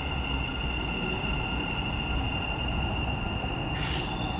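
Dubai Metro train at the platform, with a low rumble and a steady high whine. The whine stops about four seconds in, with a short burst of noise.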